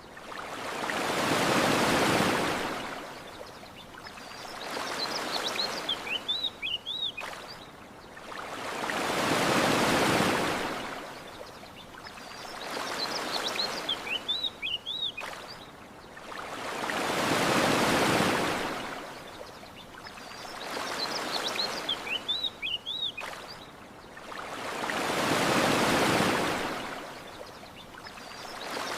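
Ocean waves washing onto a shore, one slow swell about every eight seconds, with small birds chirping in the lulls between the waves.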